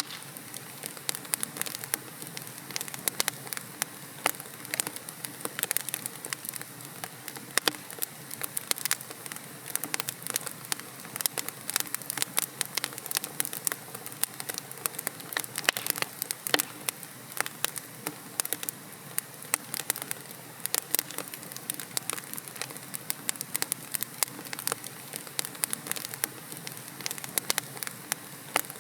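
Wood logs burning in a fireplace, crackling and popping in a dense, irregular stream of sharp snaps over a steady hiss.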